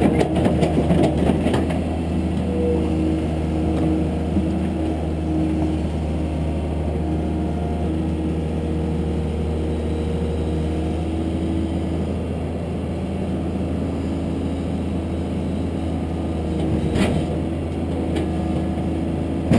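Caterpillar 320C excavator's diesel engine running steadily, with higher whining tones that come and go over the low hum. A sharp knock sounds near the end.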